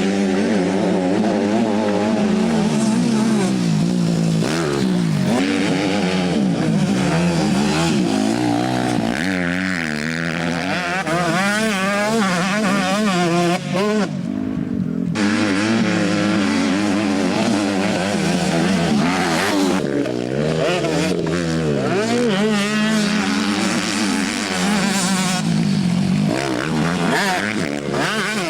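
Motocross motorcycle engines revving up and down over and over as the bikes ride the track, several engine notes overlapping. There is a brief drop a little before the middle.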